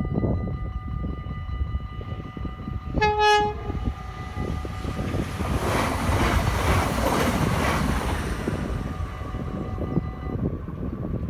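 Level-crossing bells ringing steadily as an SNG Sprinter electric train gives a short horn blast about three seconds in, then rushes past, loudest midway. The bells stop near the end.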